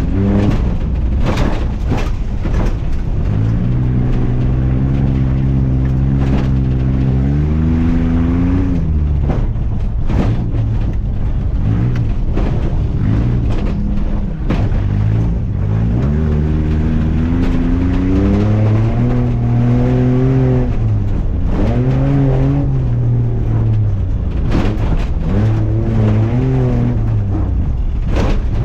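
Off-road truck engine running hard on a dirt course, its pitch held steady for a few seconds and then revving up and dropping back again and again as the throttle is worked, with a few sharp knocks along the way.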